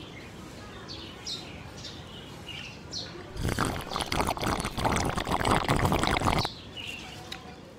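Small birds chirping repeatedly in short high calls. In the middle, a loud rushing noise lasting about three seconds breaks over them.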